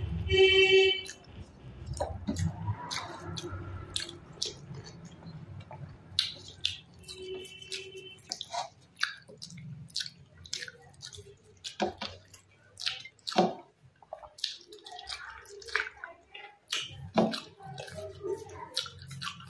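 Close-up wet eating sounds: chewing, lip smacks and squelches of a mouthful of rice and dal, with many short, sharp clicks through the stretch.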